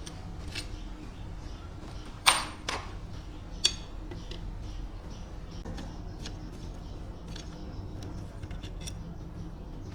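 Scattered sharp clicks and knocks of tools and parts being handled, the loudest about two seconds in with a brief ring and another a second later, over a low steady hum.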